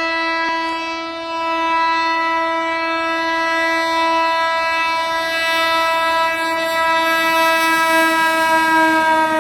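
Indian Railways locomotive horn sounding one long, unbroken blast. Its pitch dips slightly near the end as the train passes through the platform.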